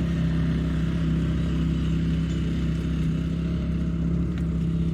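Small vehicle engine running at a steady speed, a constant hum with no revving.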